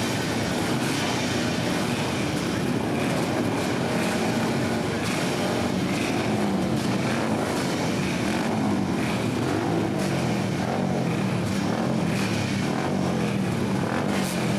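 Several flat-track racing motorcycles idling together at the starting line, their overlapping engine notes running steadily with small wavers in pitch.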